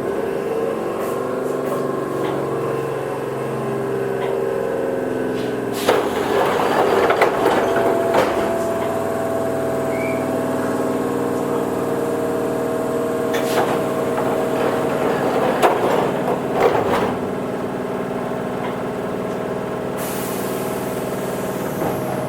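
Onboard running sound of a Toyohashi Railway 1800-series electric train (ex-Tokyu car): a steady hum with several held tones from the traction equipment as the train gets under way, with clusters of sharp clacks from the wheels on the track about six seconds in and again between about 13 and 17 seconds.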